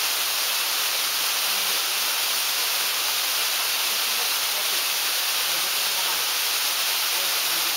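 Steady rush of a 90-foot waterfall: a dense, even hiss of falling water that does not let up.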